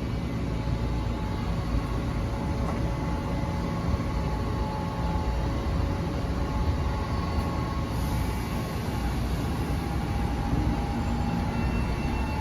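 Metro-North commuter train rumbling steadily through the station, with faint steady whining tones over it and a high hiss coming in about two-thirds of the way through.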